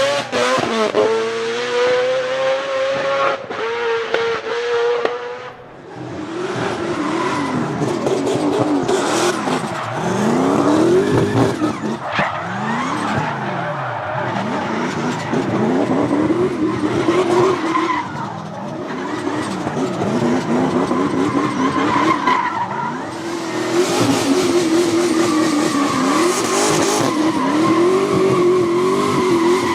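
A drift car's engine revving hard, its pitch rising and falling again and again, over the hiss and squeal of skidding tyres. The sound dips briefly about five and a half seconds in.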